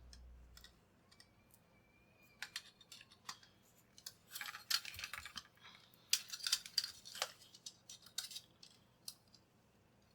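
Small hard clicks and taps, with short scraping, rustling flurries about four and six seconds in, as small plastic parts and tools are handled on a workbench.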